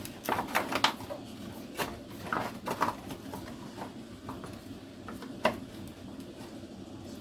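Small clicks and knocks of parts being handled and fitted during reassembly of a power edger's carburettor, thicker in the first three seconds, with one sharper knock about five and a half seconds in.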